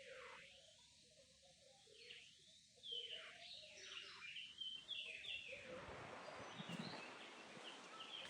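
Faint outdoor ambience with small birds chirping, mostly in the middle of the stretch, over a steady background hiss that grows a little towards the end.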